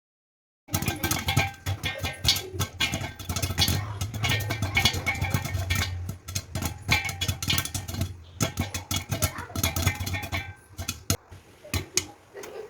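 Popcorn kernels popping in a hot pan, a dense rapid crackle of pops over a low steady hum, starting after a moment of silence and thinning out near the end as the popping slows.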